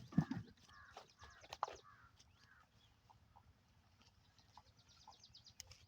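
Birds calling in short chirps, with a few sharp knocks.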